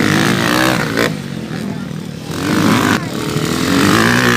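Motocross bikes' engines revving hard, their pitch rising and falling in several surges as the bikes ride the track.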